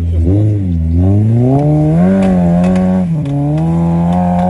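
Chevrolet Niva's engine revving hard under load as the car climbs a steep bank out of a ditch. The revs rise about a second in, dip briefly near three seconds, then are held high.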